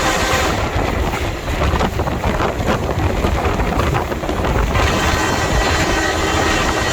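Alaska Railroad train running at the depot: a loud, steady, heavy rumble, with wind buffeting the microphone.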